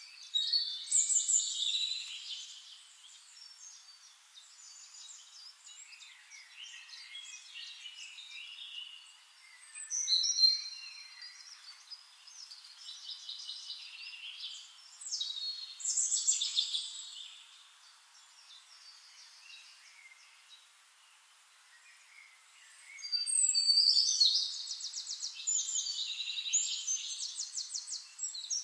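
Birds chirping and singing in several separate bouts, with a fast trill near the end.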